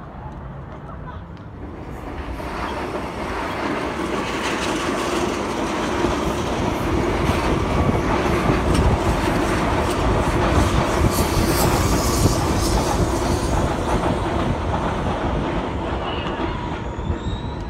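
Sydney Trains double-deck electric train passing along a viaduct. Its rumble builds over the first few seconds, is loudest midway with rapid clicking of wheels over the rail joints, then eases as the train moves away.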